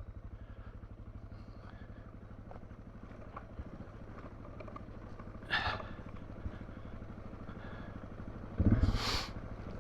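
Motorcycle engine running at low revs with a steady, rapid firing pulse. There are two brief louder noises, one about halfway through and a longer one near the end.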